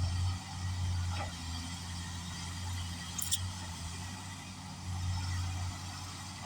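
Kobelco 380 hydraulic excavator's diesel engine running steadily with a low hum, swelling a little as it takes load twice. There is one brief high click about halfway through.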